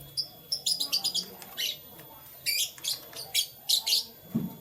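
Canaries chirping: many short, high-pitched chirps coming in quick clusters, with short pauses between them.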